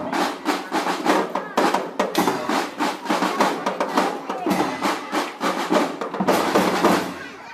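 Marching drum band percussion playing: snare drums beating quick rhythms and rolls over bass drums, a dense run of hits throughout.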